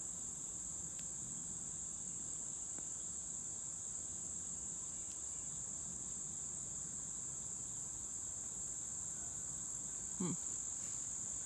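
A chorus of crickets: a steady, high-pitched, unbroken drone.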